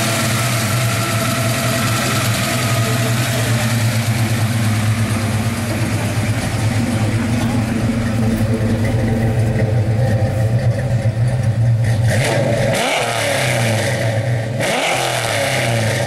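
A 1995 Ford Mustang GT's 5.0 V8, fitted with a small cam, BBK long-tube headers and knockoff Flowmaster mufflers, idling steadily, then revved twice near the end.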